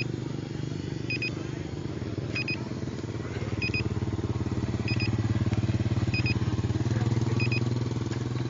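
An engine running with a rapid pulse, louder in the middle stretch. A short double beep repeats about every 1.2 seconds over it.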